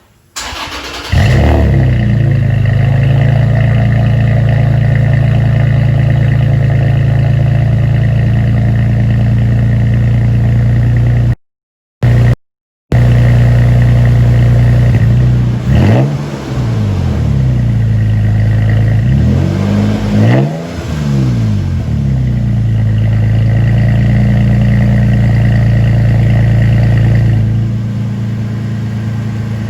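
2016 Toyota Tacoma TRD Sport engine heard through a newly fitted AP Xlerator VR7426 aftermarket muffler. It starts about a second in and idles steadily, with a few revs rising and falling in the middle and another near the end. The sound cuts out briefly twice partway through.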